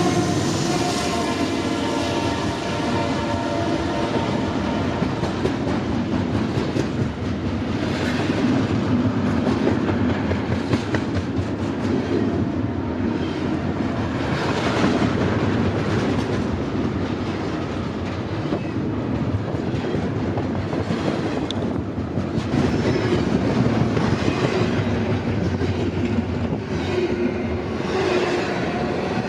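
A train rolling past, its wheels clattering steadily over the rails for the whole stretch. A horn sounding several notes at once is dying away in the first couple of seconds.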